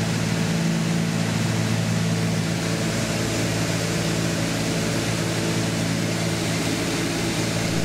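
Cessna 310's twin piston engines and propellers droning steadily, heard inside the cockpit. They are still at cruise power as the aircraft begins an autopilot descent.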